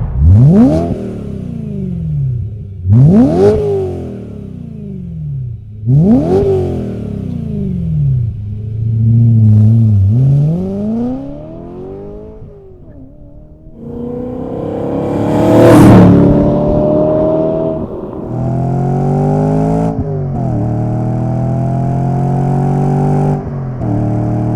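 BMW E9X M3 V8 through a Borla cat-back exhaust: three quick rev blips, a slower rise and fall, then hard acceleration with the pitch climbing and dropping back through successive upshifts. The sound cuts off suddenly near the end.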